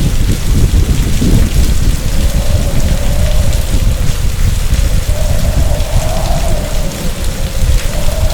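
Heavy typhoon rain and storm noise with a deep continuous rumble, over which a wavering wind howl rises and falls in pitch.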